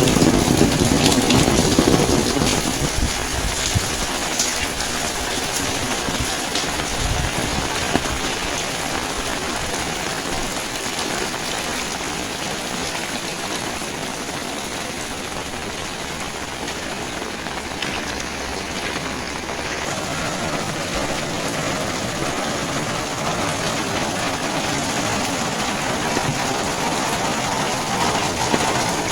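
Rain falling steadily, an even hiss. It is louder and fuller during the first couple of seconds, then settles.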